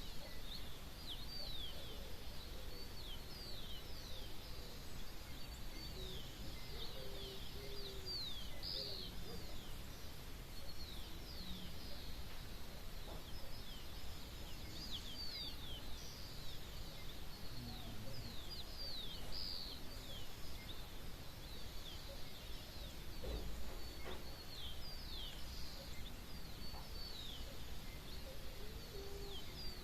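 Many small birds chirping in a dawn chorus: rapid short high calls, each sweeping downward, overlapping throughout. A lower call is heard a few times near the start and again near the end, over a steady background hum of outdoor noise.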